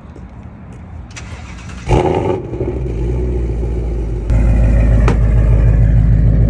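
Ford Mustang with headers, no catalytic converters and the stock active exhaust, started by remote. The engine fires with a loud flare about two seconds in, then settles into a steady idle. A couple of seconds later the idle steps up louder.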